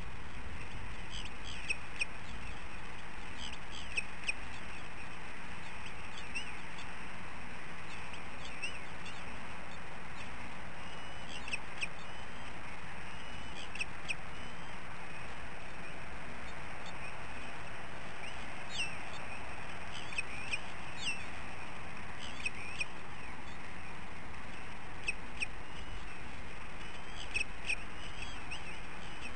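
Short, high bird chirps and squeaky calls in small clusters every second or two, over steady background noise.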